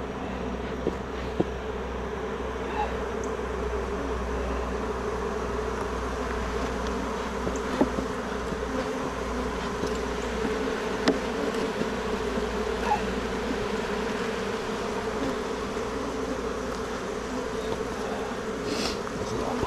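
Honeybee colony buzzing steadily around an opened hive during an inspection, a constant mid-pitched hum. A few faint, sharp clicks sound over it.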